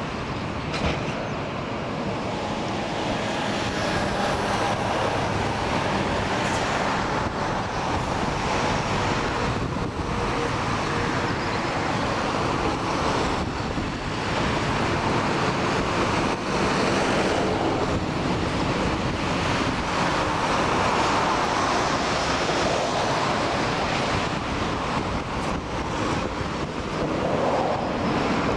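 Jet noise from a McDonnell Douglas KC-10 Extender's three turbofan engines as the tanker comes in to land, a steady loud rushing sound that swells a little past the middle.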